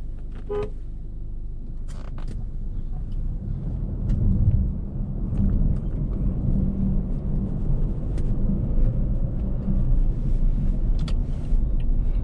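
A car labouring through deep snow: a steady low rumble that grows louder about four seconds in, with scattered short clicks.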